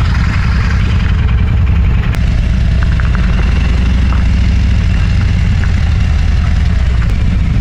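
Motorcycle engine running steadily, a strong, even low rumble with no revving.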